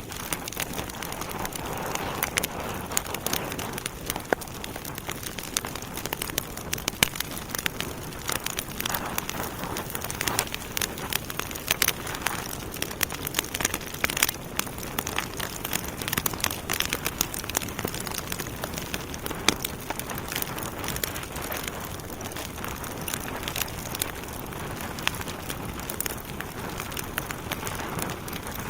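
Wood fire burning in a fireplace: logs crackling and popping with many sharp snaps over a steady hiss of flames.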